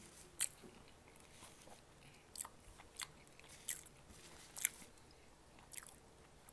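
A person chewing food close to the microphone, with faint mouth noises and about six short, sharp wet smacks spread through.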